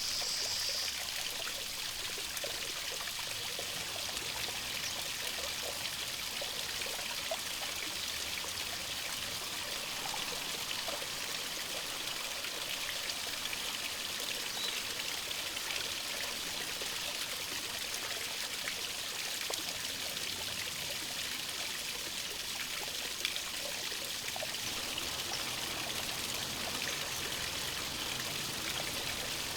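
Mountain stream running steadily, an even rushing hiss. A high, thin, steady sound cuts off about a second in.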